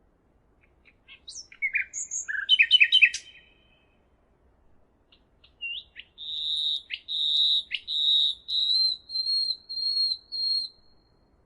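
A songbird singing: a quick burst of high chirps, then after a short pause a longer phrase of high whistled notes held at about one pitch, broken by a few sharp downward sweeps.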